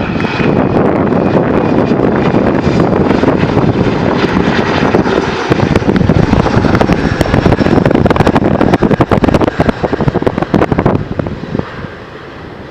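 Bombardier CRJ900 jet airliner, its two rear-mounted turbofans, passing close on approach in strong wind, with gusts buffeting and crackling on the microphone. The engine noise drops away sharply about eleven seconds in.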